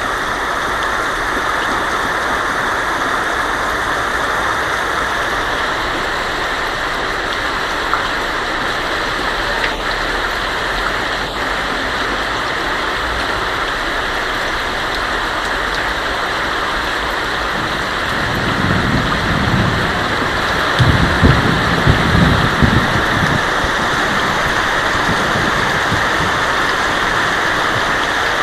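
Heavy rain pattering steadily on a tin roof, with a low rumble of thunder rolling in surges about two-thirds of the way through.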